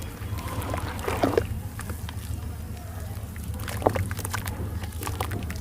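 Clumps of red gritty sand crumbling and being dipped in water: scattered crisp crackles with a few small wet pops and sloshes.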